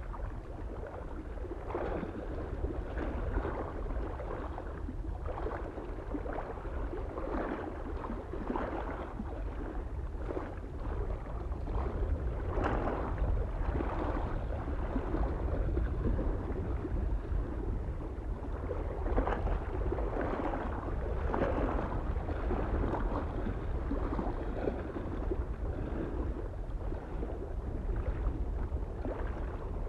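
Small lake waves lapping irregularly against the shore in quick, uneven splashes, over a steady low rumble of wind on the microphone.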